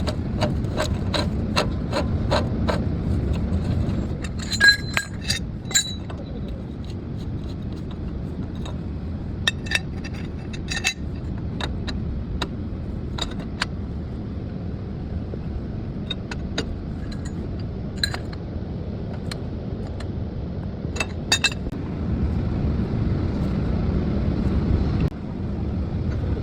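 Metal tools clinking and ticking against metal parts during wheel-bearing work: a run of even ticks in the first few seconds, a few ringing clinks about five seconds in, and scattered clicks after, over a steady background of traffic noise.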